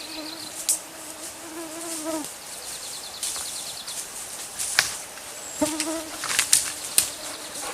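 A fly buzzing close by with a steady hum that stops about two seconds in and comes back near the end. A few sharp clicks and snaps are heard between.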